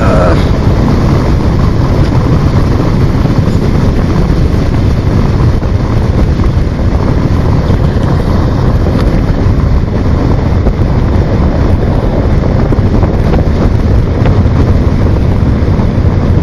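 Heavy wind buffeting on the microphone of a motorcycle moving at speed: a steady low rumbling rush that covers the engine.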